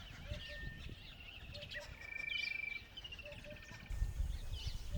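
Several birds calling together: a held high trill, quick whistled phrases, and short low notes in pairs repeated every second or so. A brief low rumble comes near the end.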